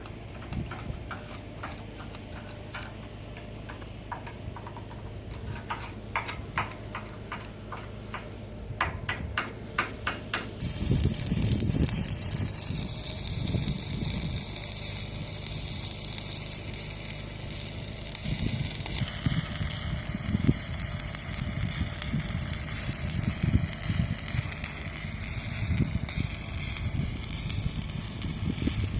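Arc welding: a steady crackling sizzle that starts suddenly about ten seconds in and carries on, preceded by a run of quick sharp ticks.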